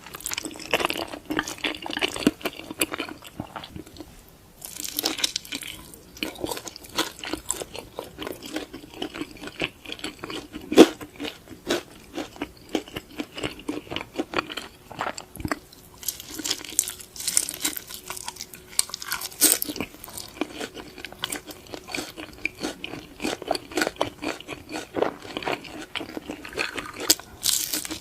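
Close-miked eating: chewing and biting into noodles and chicken, a continuous run of quick irregular mouth clicks with a brief lull about four seconds in and one sharp louder click about eleven seconds in.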